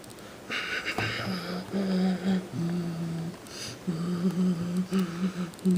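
A man humming a low tune, held notes stepping back and forth between two close pitches, starting about a second in; a short hissing rustle comes just before the humming begins.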